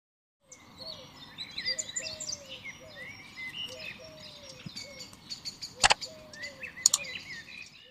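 Several birds chirping and singing outdoors in a busy mix of short high chirps and repeated lower down-gliding calls. Two sharp clicks sound about six and seven seconds in.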